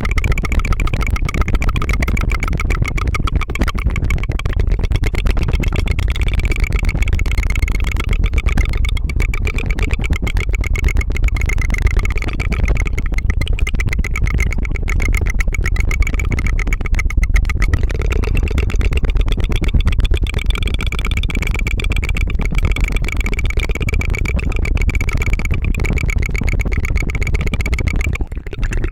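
Continuous rapid tongue fluttering: a rolled-tongue trill close to the microphone, making a fast, motor-like 'tu-tu-tu' buzz, with a brief break near the end.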